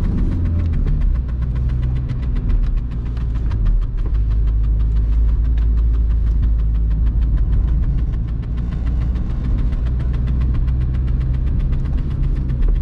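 In-cabin sound of a VW Golf 3's 1.9 TDI (1Z) four-cylinder turbodiesel pulling the car along: a steady low drone with fast, even diesel clatter over it, its pitch shifting a little a couple of times.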